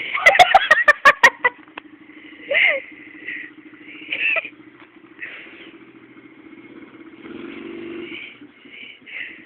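Motorbike engine idling steadily. In the first second and a half there is a quick clatter of about eight sharp knocks.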